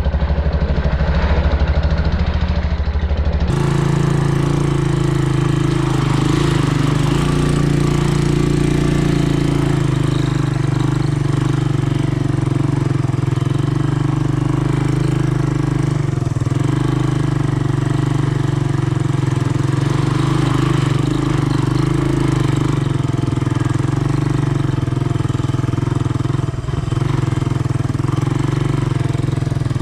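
Honda ATC200M three-wheeler's single-cylinder four-stroke engine running steadily. The sound changes abruptly about three and a half seconds in, then holds an even drone.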